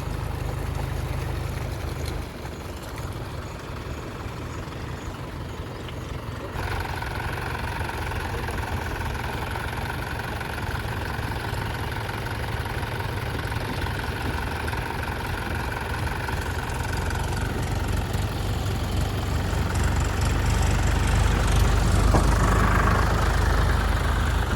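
Tractor engine running steadily, with a higher-pitched whine joining about six seconds in and the engine growing louder in the last few seconds.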